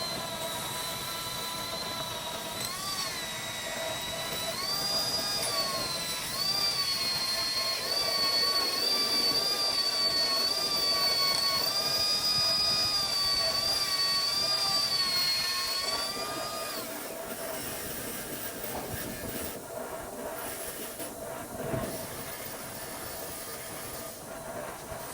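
A high-pitched power tool whining, its pitch wavering and stepping up and down as it is worked, stopping about two-thirds of the way in; a steady hiss follows.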